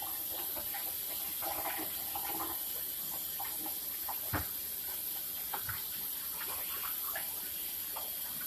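A steady hiss of running water, with a few faint knocks.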